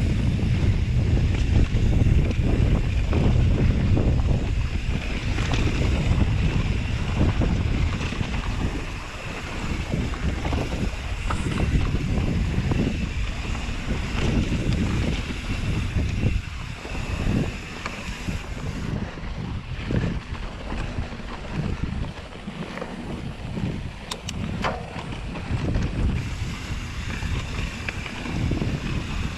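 Wind buffeting the microphone of a camera on a mountain bike riding a dirt trail: a loud, gusty low rumble that eases somewhat after about nine seconds, with a few sharp clicks near the end.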